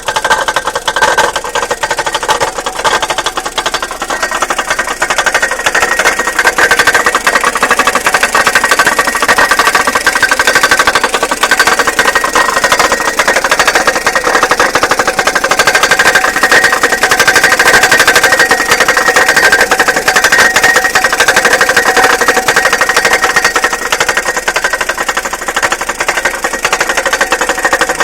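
Toyota 3C-TE four-cylinder turbodiesel engine running steadily with a fast, even knocking throughout, a knock whose cause the owner is unsure of.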